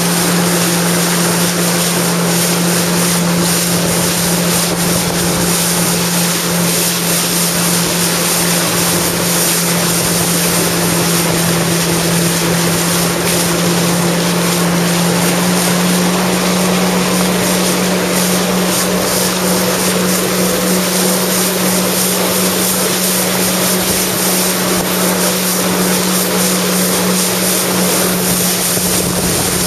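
Jet ski engine running at steady cruising speed, a constant drone that rises slightly in pitch about halfway through, over a steady rushing hiss of wind and water.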